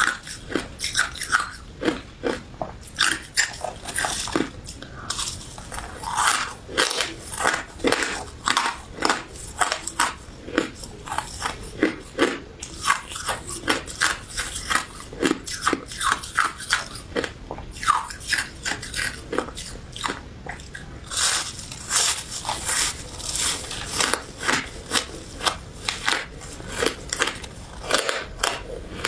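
Close-miked biting and chewing of a crunchy crystal ice dessert: a steady run of sharp, brittle crunches, several a second.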